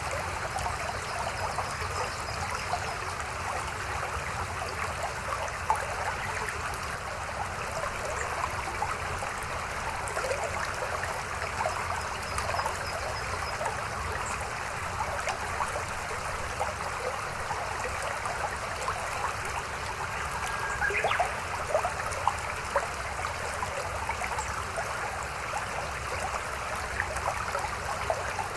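Shallow mountain stream babbling and splashing steadily, with many small water splashes and a few slightly louder ones about three-quarters of the way through.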